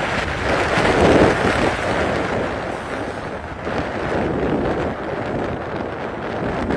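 Wind buffeting the microphone: an uneven rushing noise that swells about a second in.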